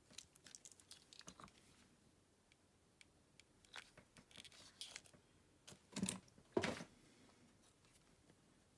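Small clicks, taps and rustles of a smartphone and repair tools being handled on a workbench, with two louder knocks about six seconds in.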